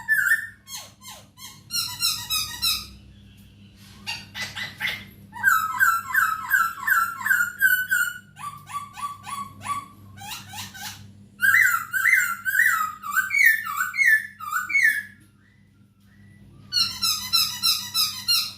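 A poksay hongkong laughingthrush calling in bursts of rapid, repeated whistled notes, with short pauses between phrases, over a steady low hum.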